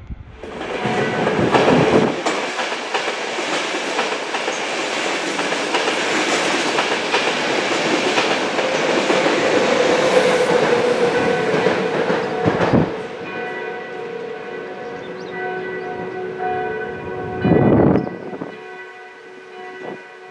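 An electric train passing close by: loud wheel-and-rail rolling noise for about twelve seconds, then quieter, with a steady whine of several tones and a few brief louder surges.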